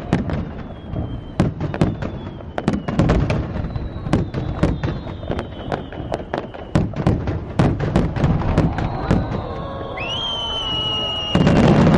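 Fireworks going off in rapid, irregular succession: dozens of sharp bangs and cracks from bursting aerial shells, with faint whistles falling in pitch. Near the end a high whistle rises and holds, and then a crowd breaks into loud cheering.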